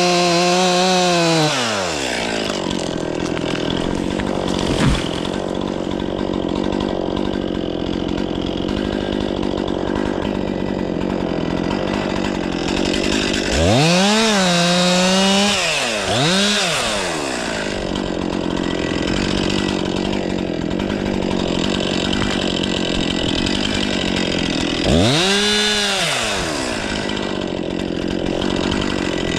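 Stihl 500i two-stroke chainsaw held at high revs, then dropping to idle about a second and a half in. It is revved up and let fall back twice near the middle and once more near the end, idling in between, with one sharp knock a few seconds in.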